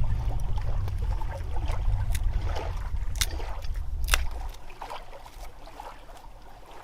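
Knife blade shaving curls off a pine stick to make a feather stick, with a few short, sharp scrapes. Under it is a low rumble that drops away about four seconds in.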